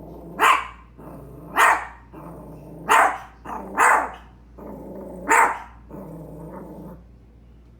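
A dog barking five times in short single barks, with a low growl running between the barks.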